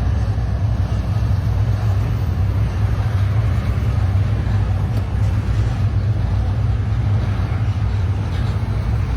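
Light rail train running, a steady low rumble with an even rushing noise over it.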